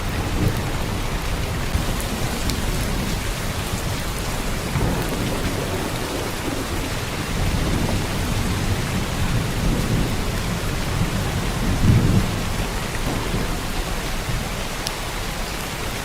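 Heavy downpour of rain, a steady dense hiss, with low rumbling swells underneath that peak about twelve seconds in.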